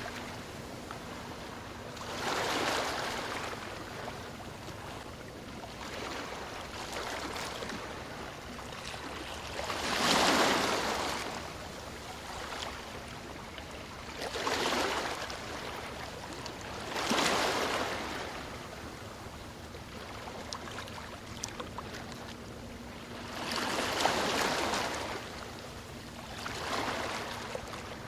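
Ocean waves breaking and washing up the shore: six rushing surges, unevenly spaced a few seconds apart, over a steady hiss of surf.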